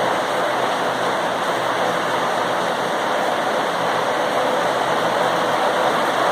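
Rain falling steadily, an even hiss with no distinct breaks or single impacts.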